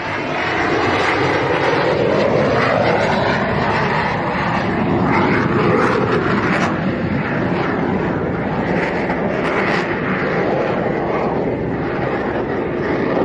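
Display aircraft flying past at an air show: a loud, continuous engine rush whose pitch slowly rises and falls as the planes pass.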